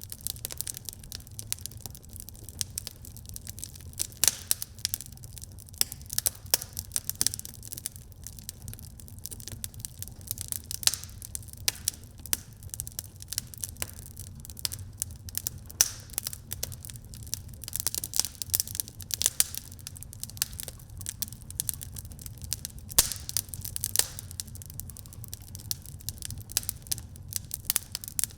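Wood fire burning in a fireplace: irregular snaps and pops of crackling wood over a steady low rumble.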